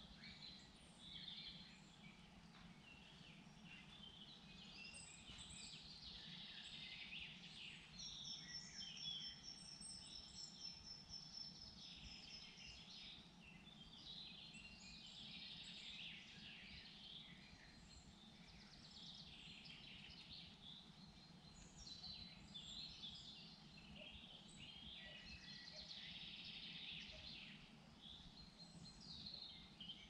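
Several forest songbirds singing and calling softly, overlapping chirps and warbles, with a rapid high trill about a third of the way in, over a faint steady low background noise.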